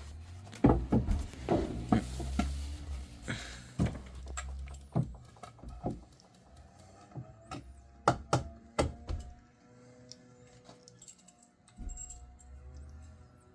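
Irregular sharp knocks and clinks, some ringing briefly, from tools and pipe parts being handled during pipe work. They come in a busy cluster in the first few seconds, then a quicker group around eight to nine seconds in.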